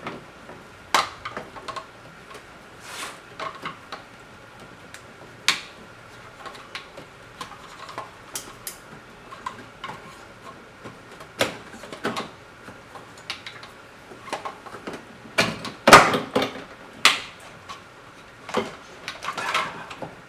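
Hands at work in a car's engine bay: scattered clicks, clinks and knocks of parts and tools being handled while the engine wiring harness is pulled out, with the loudest clatter about sixteen seconds in.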